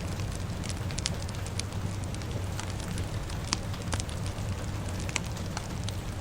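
Wood fire crackling, with irregular sharp pops several times a second over a steady hiss of rain and a low rumble.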